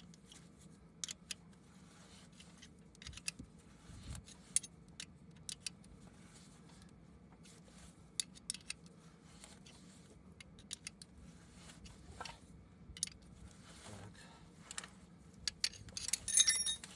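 Scattered sharp metallic clicks and clinks of hand tools working a screw-type puller on an engine cylinder-head core plug, drawing the plug out. A quick run of ringing metal clinks comes near the end.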